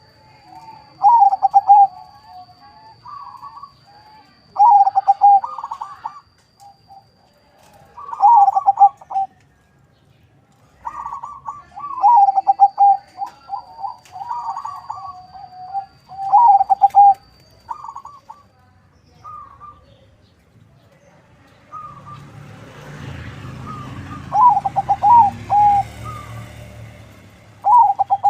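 Zebra dove (perkutut), a local × Bangkok crossbred, cooing: short trilled coo phrases repeated every few seconds. Near the end a rumbling noise runs under the song for a few seconds.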